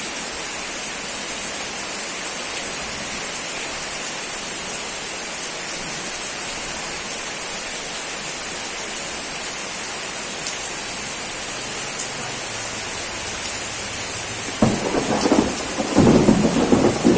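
Steady rain falling with an even hiss. About fourteen and a half seconds in, a rolling thunder rumble starts and grows louder toward the end.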